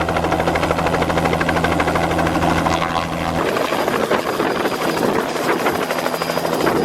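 Helicopter running close by, its rotor beating fast and steady. A low steady hum underneath drops out about halfway through.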